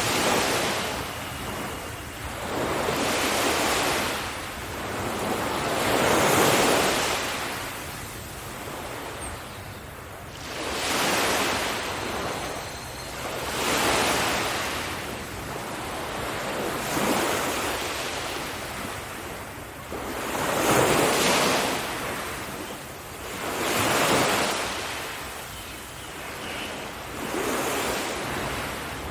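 Sea waves breaking on a beach, one wash of surf after another every three to four seconds, each rising and then fading.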